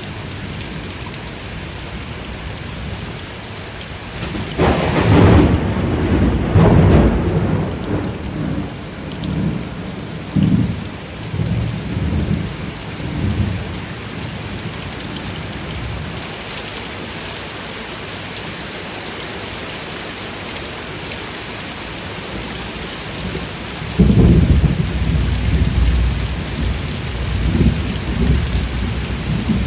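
Steady heavy rain with thunder rumbling twice: a long roll starting about four seconds in that fades in waves, and a sharper clap about two-thirds of the way through that rumbles on to the end.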